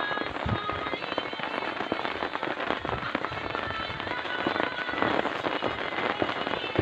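Heavy rain falling, a dense, steady patter of countless small drops.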